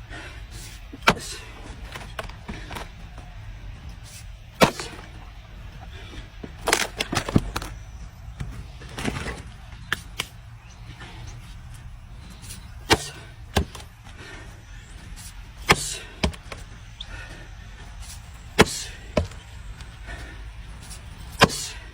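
Sharp wooden knocks and cracks at uneven intervals, a few seconds apart, from timber being handled or struck, over a steady low rumble.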